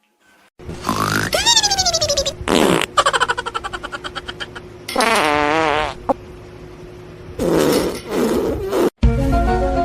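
A run of loud, buzzy fart-like noises, pitch sliding down and wavering, with one rapid pulsing stretch. Music with held notes cuts in shortly before the end.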